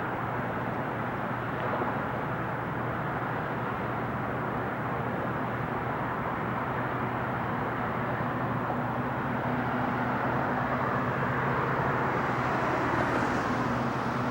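Jet noise of a four-engine Boeing 747 on its landing approach, a steady rumble with a faint hum that grows slightly louder and hissier in the second half.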